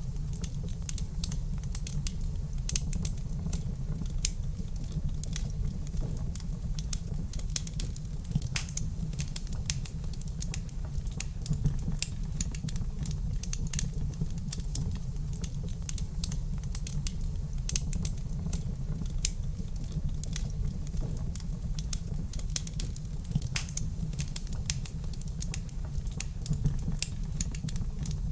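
Wood fire crackling in a fireplace: a dense, irregular stream of small sharp pops and snaps over a steady low rumble of the flames.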